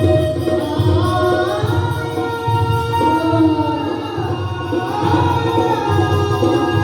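Devotional bhajan singing, the voice holding long notes that glide up and down, over a steady drum beat.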